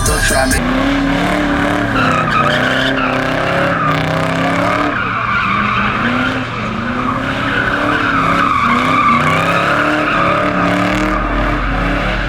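A car's engine revving up and down while its tyres squeal continuously in a sustained skid, as in donuts or a burnout.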